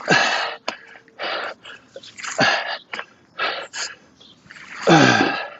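A man's hard breathing under exertion: sharp, forceful exhales about once a second, the last one longer and voiced with a falling pitch, as he works through a plank dumbbell pull-through.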